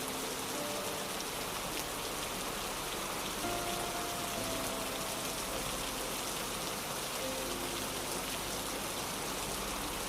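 Steady rain-like hiss of a nature ambience track, with soft, slow music notes held over it.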